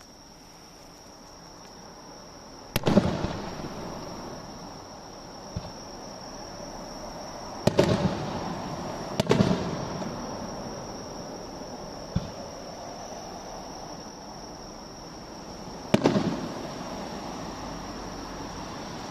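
Aerial fireworks shells bursting: four loud booms, each trailing off in a rolling echo. The first comes about three seconds in, two follow close together around eight and nine seconds, and one comes near the end, with a few smaller pops between.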